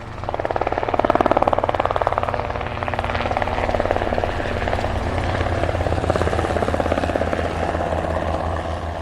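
Align T-REX 150X micro electric RC helicopter in flight: a fast, steady rotor chop with the whine of its small electric motors, swelling about a second in and fading near the end.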